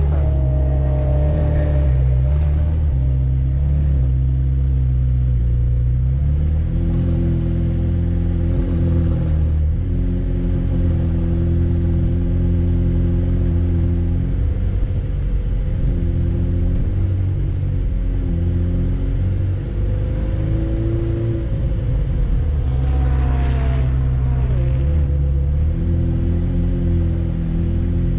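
McLaren Senna's twin-turbo V8 running at low road speed, a steady low drone whose pitch steps up and down a few times. Late on the revs rise briefly, with a short hiss over the top.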